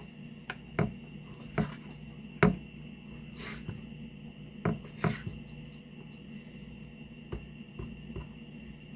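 Knife cutting raw chicken on a cutting board: about nine irregular knocks and scrapes, several close together in the first half, over a steady low hum.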